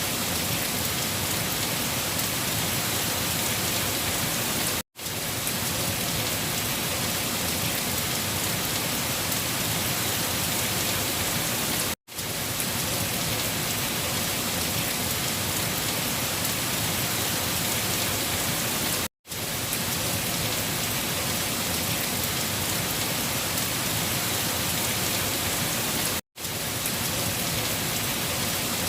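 Steady, dense rain falling on a surface, an even hiss with no pattern of its own. It cuts out to silence for a split second about every seven seconds, four times, then fades straight back in, as a looped recording does at each restart.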